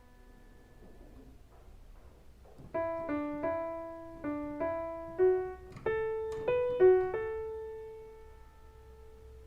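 Piano playing a simple single-note bossa nova melody in the middle register. The notes start about two and a half seconds in, and the last one is held and fades out.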